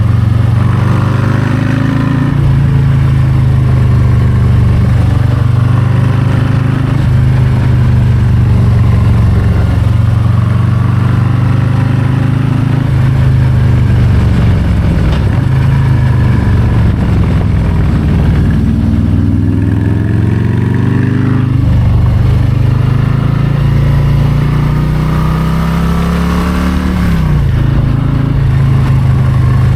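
Harley-Davidson Low Rider ST's Milwaukee-Eight 117 V-twin running under way. The engine note rises and falls several times as the throttle is rolled on and off.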